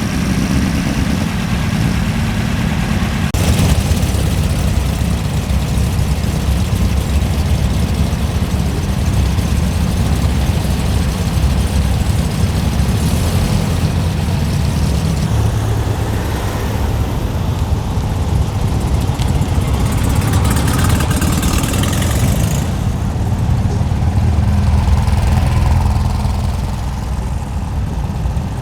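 Vintage air-cooled Volkswagen engines idling and running at low speed: a steady low engine rumble.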